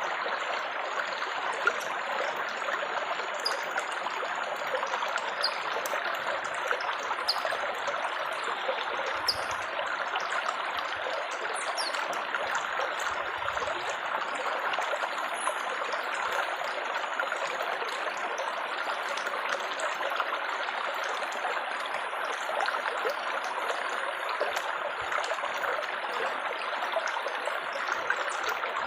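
Water trickling and babbling steadily, like a small stream or spill of running water.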